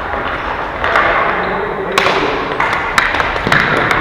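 Ball hockey play: a run of sharp knocks and thuds from sticks and the plastic ball striking, the clearest about two and three seconds in.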